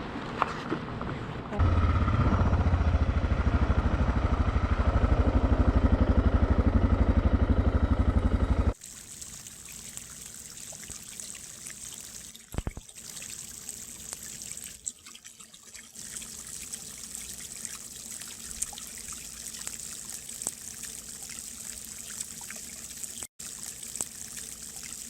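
Motorcycle engine running, louder from about a second and a half in, then cut off abruptly near nine seconds by a steady trickle of water pouring into a hot spring tub.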